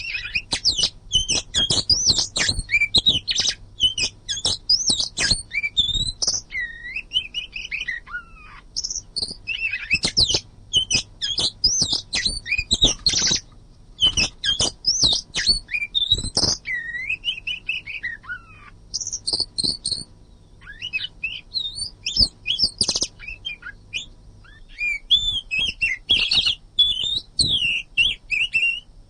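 Oriental magpie-robin singing nonstop: a fast, varied stream of whistled rising and falling notes mixed with sharp chattering clicks, broken by a few short pauses.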